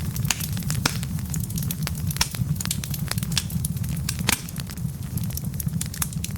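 Wood fire burning in a fireplace, the logs crackling and popping several times a second over a steady low rumble, with a few louder pops.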